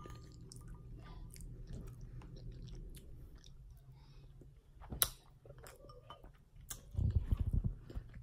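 Close-up chewing and mouth sounds of someone eating chili with a spoon, with small scattered clicks and one sharper click about five seconds in. A brief low rumble of thuds comes near the end.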